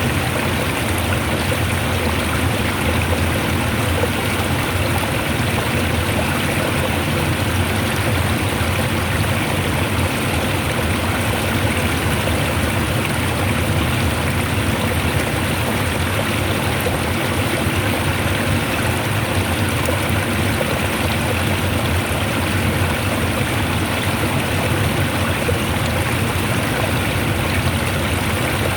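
Water rushing strongly and steadily, an even, unbroken rush.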